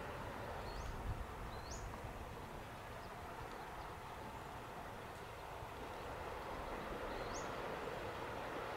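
Steady outdoor background noise, with a bird giving short, sharply rising high chirps: two about a second in and one near the end.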